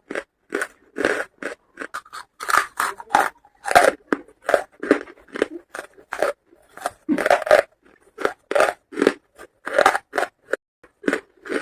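Charcoal being bitten and chewed: a steady run of short, crisp crunches, about three a second.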